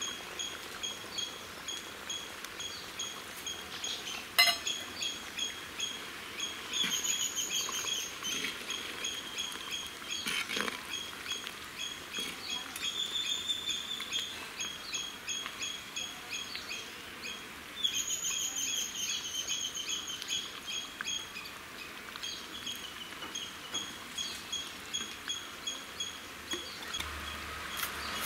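A bird chirping over and over, several short high chirps a second, in runs broken by brief pauses. A single sharp knock about four seconds in.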